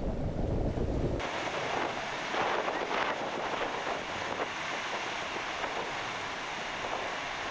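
Strong wind buffeting an action camera's microphone with a deep rumble. About a second in it changes abruptly to a steady hiss of rushing water and spray.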